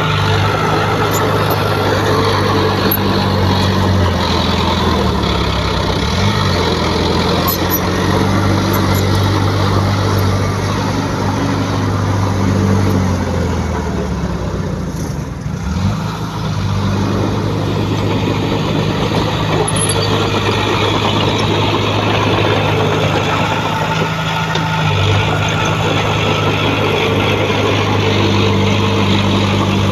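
Heavy earthmoving machine's diesel engine running hard, its pitch dipping and coming back up a few times as the load changes.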